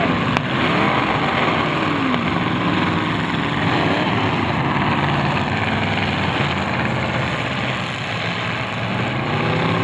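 Several demolition derby cars' engines running together loudly, with some revving up and down. A single sharp knock comes less than half a second in.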